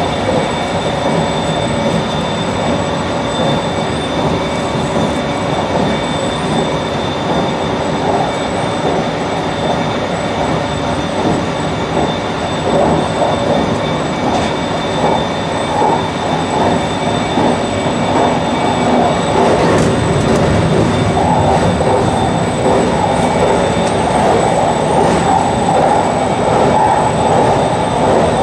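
JR Shikoku 8600 series electric train running along the line, heard from the cab: continuous rumble of wheels on rail with a steady faint high whine over it. The running noise grows louder about two-thirds of the way through.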